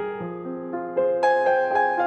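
Background music: a gentle piano melody, notes struck one after another about every quarter to half second, with a brighter run of notes from about a second in.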